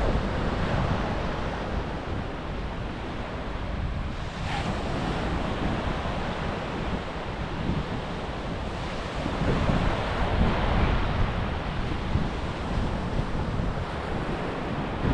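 Sea surf washing onto a beach, with wind buffeting the microphone.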